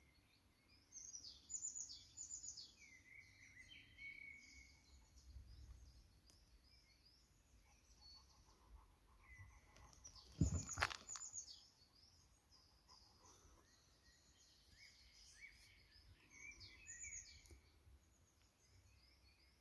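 Small songbirds chirping and calling faintly, in short high trills and glides that come and go throughout. About halfway through there is one brief, louder knock.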